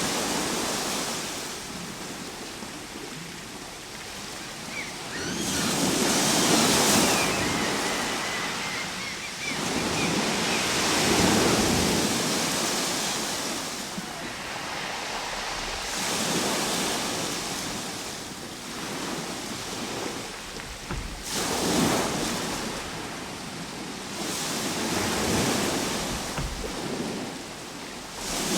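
Ocean waves breaking and washing up the shore, swelling and fading in repeated surges every few seconds.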